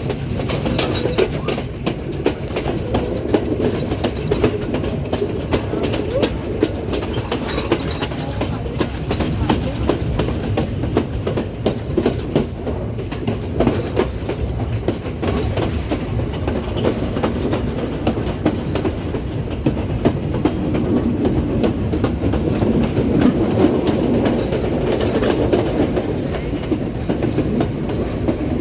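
Passenger train running along the track: a steady rumble of the carriages with frequent clacks of the wheels over the rail joints.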